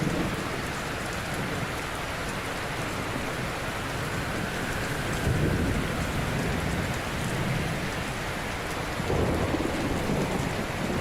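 Ocean waves breaking on a shore: a steady hiss of surf with deeper swells of breaking water about five seconds in and again near the end.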